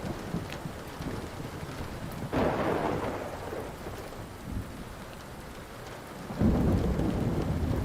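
Steady rain with rolling thunder: one rumble swells up about two and a half seconds in, and a louder one begins about six and a half seconds in and carries on. A few faint pops from a crackling wood fire sound over it.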